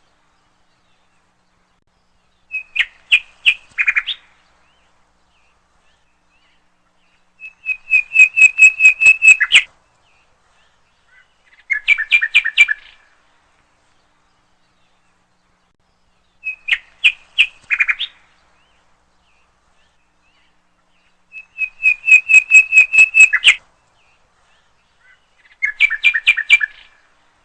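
A songbird singing in short bursts of rapid, evenly repeated chirps, each burst lasting one to two seconds, with silent gaps between them. There are six bursts, and the same sequence repeats about every fourteen seconds.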